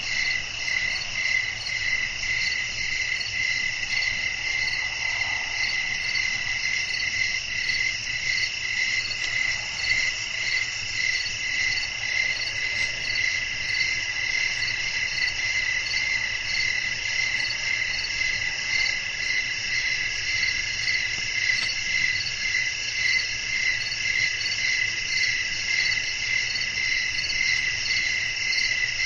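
Night chorus of crickets: several insects trilling at once at different pitches, a steady, unbroken, finely pulsing chirring.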